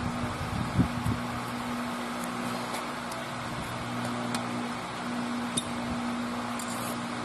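Steady mechanical hum, like a fan, with a held low tone. A few light metallic clicks and taps of hand tools sound on top of it, with a couple of dull knocks about a second in.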